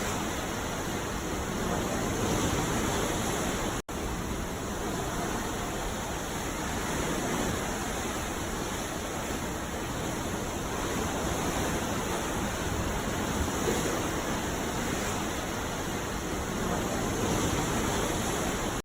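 Ocean surf on a beach: a steady rushing wash of waves that swells and eases slowly every few seconds. The sound cuts out for an instant about four seconds in.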